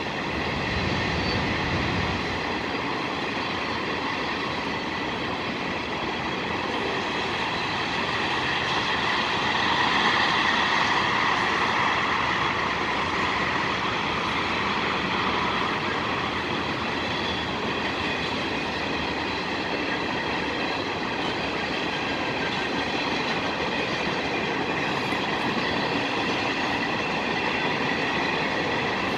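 Train rolling past on the tracks: a continuous rumble and rattle of railcars with some steady high ringing tones from the wheels, swelling a little about a third of the way in.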